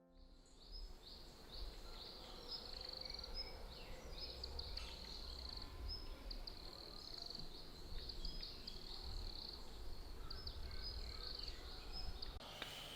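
Forest ambience: many small creatures chirping, short high calls repeating densely, over a low rumble. Near the end the chirping gives way to a steadier high tone.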